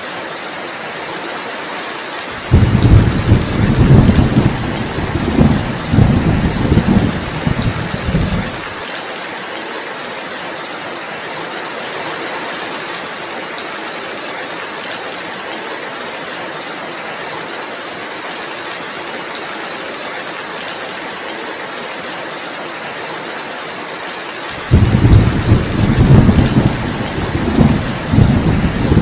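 Steady heavy rain, with two rolls of thunder: one starts suddenly about two seconds in and rumbles for about six seconds, and another begins near the end.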